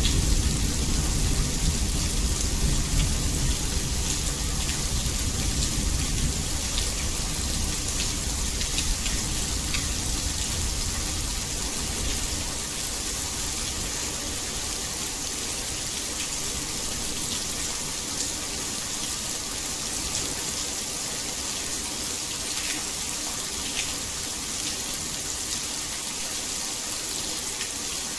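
Steady heavy rain, an even hiss with scattered sharp drop ticks. The low rumble of a thunderclap dies away over the first dozen seconds.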